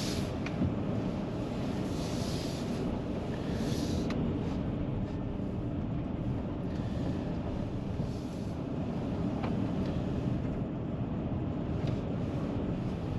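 Steady low road and engine rumble inside a van's cabin while driving, with a few faint ticks over it.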